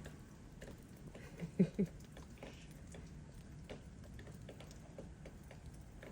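Faint, scattered small clicks and taps, with two short, low voice-like sounds about a second and a half in.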